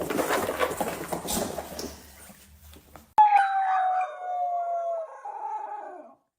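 A dog howling: one long howl that slides slowly down in pitch, then a shorter one that drops away at its end. Before it comes about three seconds of indistinct noise.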